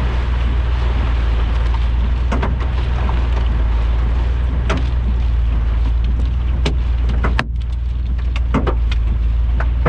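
Rain and hail pelting a vehicle: a dense hiss with many scattered sharp hits, irregular and a few each second, over a steady low rumble.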